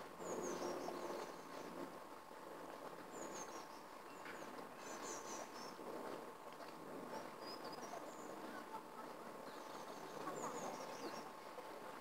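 Outdoor park ambience: small birds chirping now and then in short high notes over a steady background noise, with a faint steady hum.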